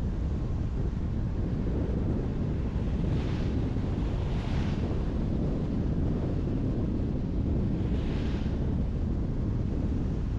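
A car driving on the road: a steady low rumble of tyre and wind noise. Brief hissing swells come about three seconds in, at about four and a half seconds, and near eight seconds, from passing traffic.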